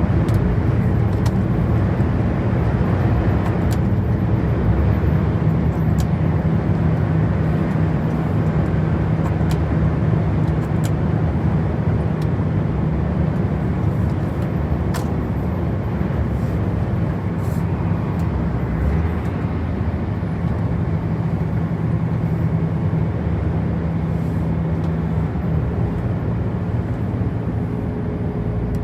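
Loaded heavy truck cruising at steady motorway speed, about 80 km/h, its engine running with an even hum under continuous tyre and road noise.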